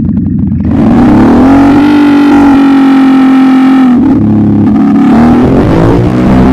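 ATV engine revving hard: it climbs under a second in, holds high for a few seconds, drops back about four seconds in, then revs up again.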